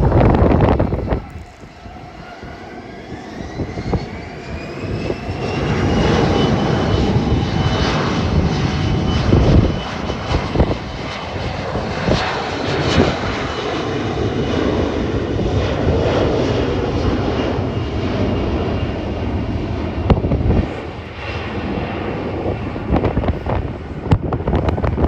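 Jet airliner engines spooling up with a rising whine over the first several seconds, then running steadily and loudly with a deep rumble. Gusty wind buffets the microphone throughout.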